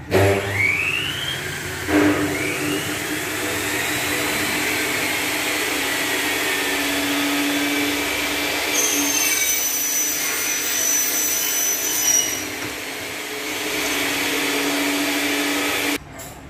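A small motor-driven machine starts with a rising whine, kicks up again about two seconds in, then runs steadily with a whine and hiss before cutting off suddenly near the end.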